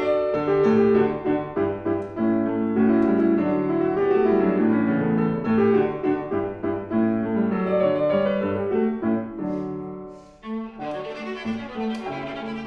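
Viola and piano playing together live in a classical style. The music briefly drops away about ten seconds in, then the viola comes back in on a held low note.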